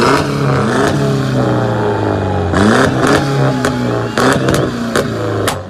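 Car engine revved hard in repeated blips, the pitch climbing and dropping back about three times, with a few sharp cracks among the revs.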